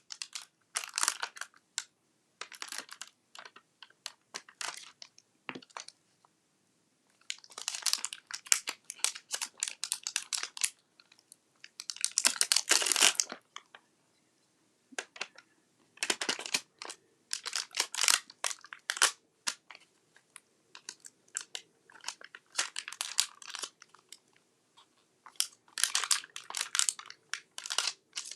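Paper and card being handled and crinkled: short bursts of rustling and small clicks, with brief pauses between them.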